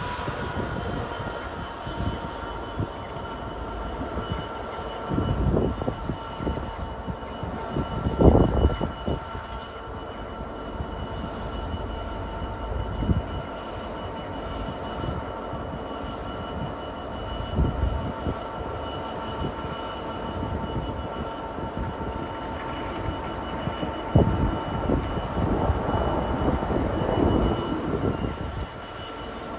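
Diesel freight train running, a continuous rumble with steady whining tones and a few irregular low thumps.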